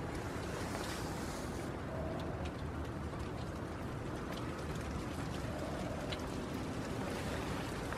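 Steady rain falling on a shelter roof, with a low rumble underneath and scattered clicks of drops.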